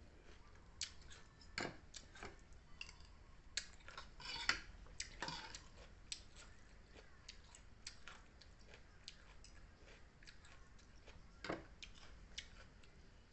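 Faint eating sounds: scattered small clicks and soft chewing, with a few louder crackles about four to five seconds in and one more sharp click near the end.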